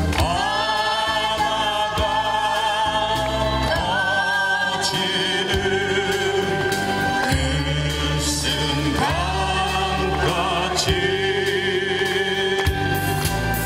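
A crowd singing together over musical accompaniment, the voices holding long notes with vibrato.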